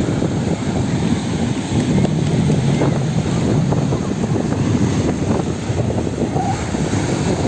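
Wind buffeting the microphone over the sound of sea waves, a steady loud rush heaviest in the low range.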